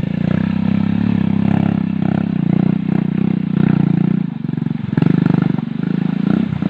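A heavy machine's engine running steadily with a fast even pulse, its level dipping briefly about four seconds in and picking up again.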